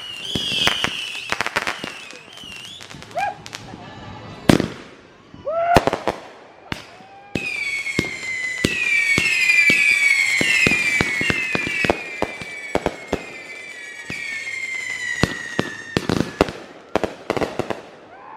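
Consumer fireworks going off: rapid pops and crackles throughout, with one loud bang about four and a half seconds in. From about seven seconds a long whistle slowly falls in pitch for around nine seconds over the crackling, then stops.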